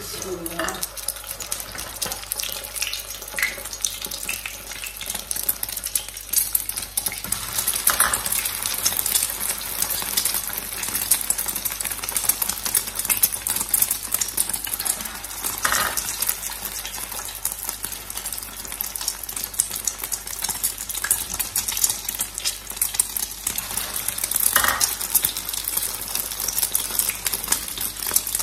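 Egg-dipped frozen shami kebabs frying in oil on a flat iron tawa, with a loud steady sizzle full of fine crackling spatters. It rises sharply at the start as the first kebab goes into the hot oil.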